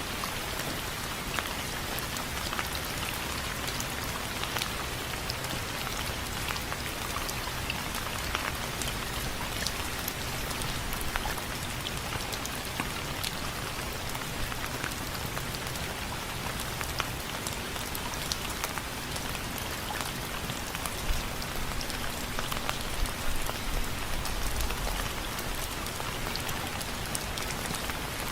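Steady rain pattering on window frames, with many separate drops ticking sharply against the hiss of the downpour.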